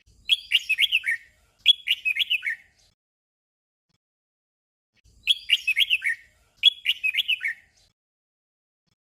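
Red-whiskered bulbul song: a short warbled phrase given twice in quick succession, then the same pair of phrases again about five seconds in.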